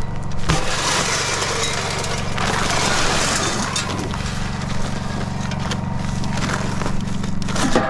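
An engine running steadily at idle. Over it, for the first few seconds, there is a burst of rough scraping and rustling noise with a few sharp knocks.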